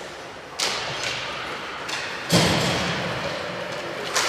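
Ice hockey play: three sharp knocks echoing around the rink, with the loudest near the middle, typical of the puck and sticks striking the boards.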